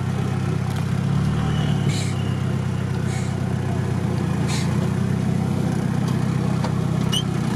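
Off-road 4x4's engine running steadily at low revs as the vehicle sits or creeps in deep swamp grass, heard close up from the bonnet.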